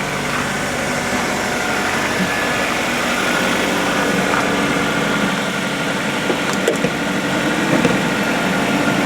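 A 2010 Ford Focus's 2.0-litre Duratec inline-four idling steadily, about a minute after a cold start in winter.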